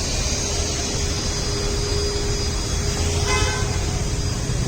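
Vacuum cleaner running steadily with a constant motor hum and hiss. A short horn toot sounds about three seconds in.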